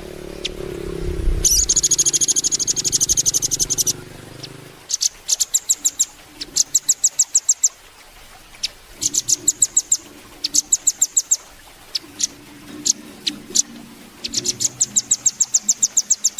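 Velvet-fronted nuthatch calling: a dense, fast, high trill starting about a second and a half in, then repeated quick runs of sharp, high chip notes, about ten a second. A low rumble sits underneath during the first few seconds.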